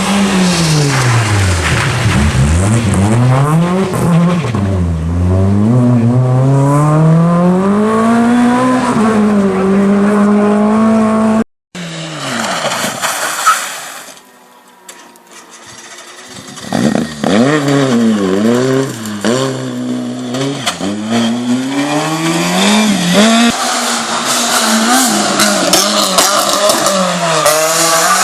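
Small Fiat rally cars' engines revving hard, the pitch climbing and dropping again and again through gear changes and lifts. The sound cuts off abruptly about eleven seconds in, then after a short quieter stretch another car comes through revving the same way.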